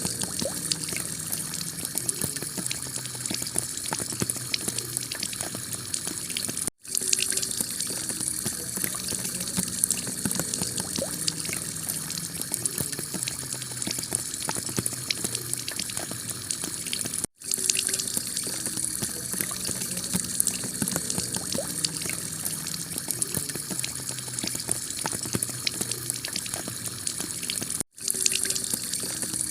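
Heavy rain falling steadily on a clay tile roof, a dense hiss of countless drops. The sound cuts out for an instant three times, about ten seconds apart, where a short recording loops.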